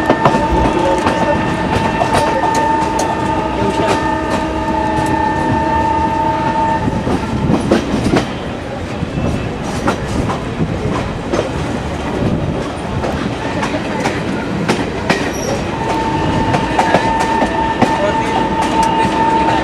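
Indian Railways passenger train running, heard from inside a coach: a steady rumble with wheels clicking over the rail joints. A train horn sounds one long steady blast for about the first seven seconds and starts again about three seconds before the end.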